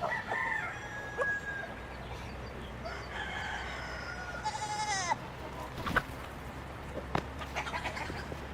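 Rooster crowing with other chickens calling, the calls falling away about five seconds in, followed by a few sharp clicks.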